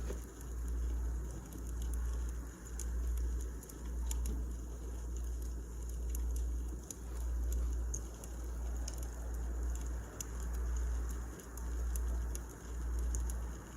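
Wood fire crackling in a fireplace: scattered sharp pops and snaps over a soft hiss, with a low rumble that swells and fades about once a second.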